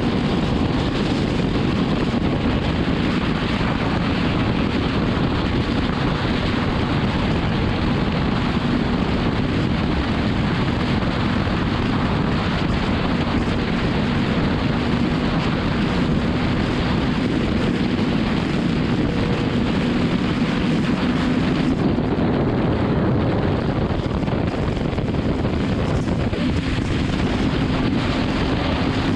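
Heavy wind rushing over the microphone of a motorcycle cruising at highway speed. Underneath it is the steady, even drone of the BMW S1000RR's inline-four engine holding a constant speed.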